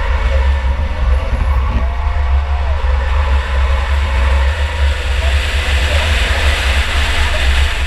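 Onboard sound of a 2004 Chevy Impala enduro race car running at speed: steady engine and road noise with heavy low wind buffeting on the camera's microphone.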